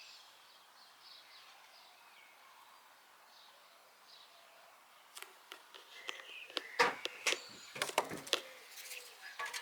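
Faint high bird chirps. From about five seconds in, a run of sharp knocks and clatters, loudest around seven and eight seconds.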